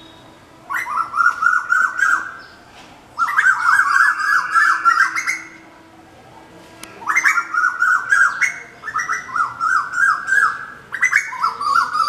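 Rufous treepie calling in repeated bouts of rapid chattering notes, each bout lasting a second or two, with short pauses between.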